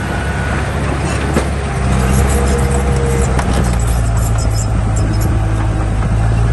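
Heavy diesel earthmoving machine running steadily under load, its engine growing louder about two seconds in, with scattered light metallic clinks.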